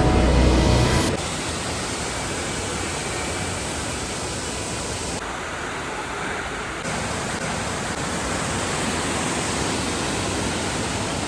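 Steady rush of falling water from a mountain waterfall, an even hiss with no tones; background music cuts out about a second in, and the water sound shifts slightly in level twice.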